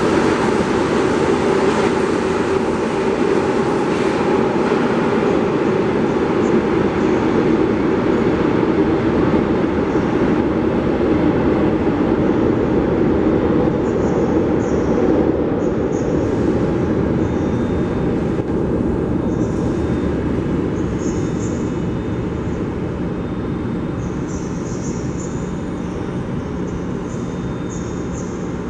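São Paulo Metro train running through a station: a steady, loud rumble of wheels and motors that slowly fades over the last several seconds, with faint short high hisses in the second half.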